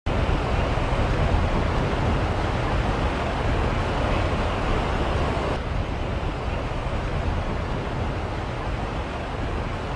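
Steady rushing of floodwater with wind buffeting the microphone. The sound turns abruptly duller about halfway through.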